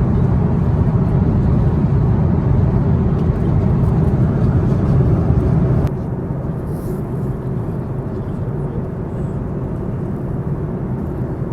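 Steady low rumble of a moving vehicle, with no distinct events. The sound cuts abruptly about six seconds in to a slightly quieter stretch of the same kind of rumble.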